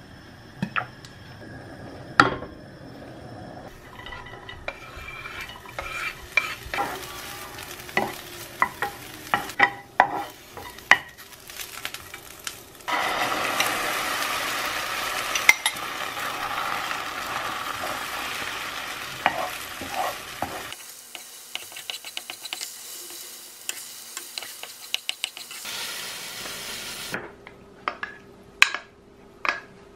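Green onions frying in oil in a nonstick pan, sizzling under knocks and scrapes of a utensil; about thirteen seconds in the sizzle gets much louder as beaten egg and soft tofu are poured in. Near the end, a few sharp clicks of a wooden spoon against a plastic container and a bowl as rice is scooped out.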